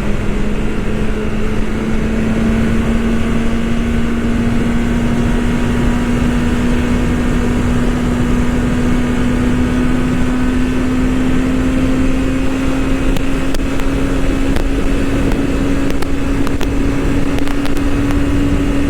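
BMW S1000RR's inline-four engine running steadily while riding, its note climbing slowly and evenly as the bike gradually gains speed, over a constant rush of wind noise.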